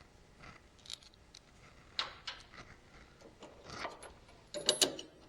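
Scattered clicks and metallic clinks of hand tools and bolt hardware being handled on the mower, with the loudest cluster of clinks near the end.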